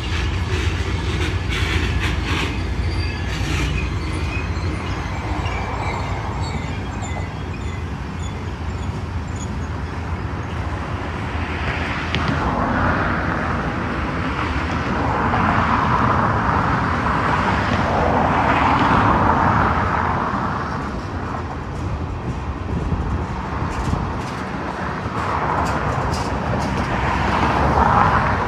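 Union Pacific manifest freight train rolling past, a steady rumble of wheels on the rails. The noise swells louder about halfway through and again near the end.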